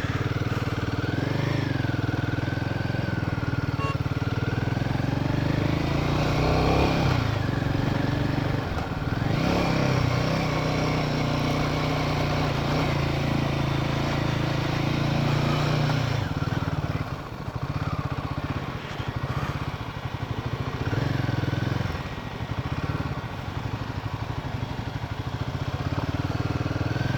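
Royal Enfield Himalayan 450 single-cylinder engine running steadily under way. About two-thirds of the way through, the engine note drops and turns uneven as the rider eases off.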